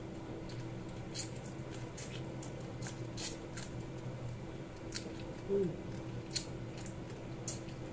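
Close-up crunching of crispy fried dried fish (tuyo) being bitten and chewed, head and bones included: irregular sharp crackles, about a dozen of them. A short hum of the mouth a little past halfway.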